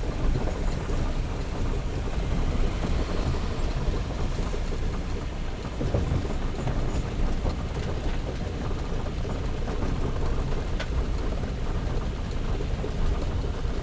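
Steady low rumble of road and wind noise inside a BMW E36 M3 under tow, with no engine note: its engine is dead after losing oil pressure.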